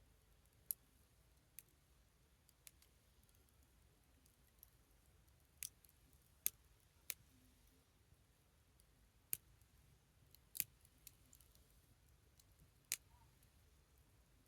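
Small wood fire crackling: sharp, scattered pops, roughly one every second or so at uneven gaps, against near silence.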